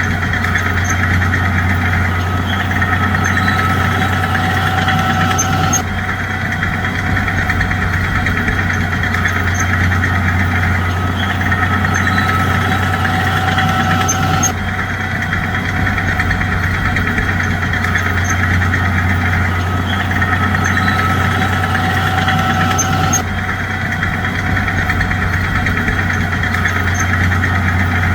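Bulldozer's diesel engine running steadily with a deep hum, in a pattern that repeats about every nine seconds.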